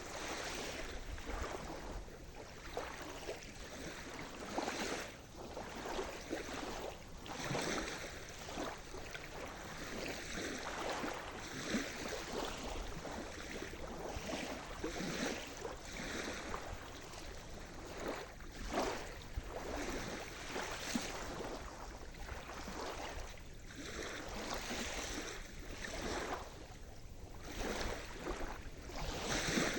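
Sea surf: small waves washing and splashing at the water's edge, a steady wash broken by frequent short, irregular splashes.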